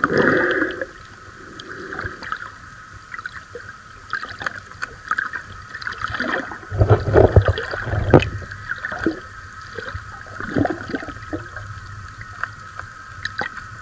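Water gurgling and sloshing with scattered clicks and uneven surges, as picked up by a camera underwater during snorkeling.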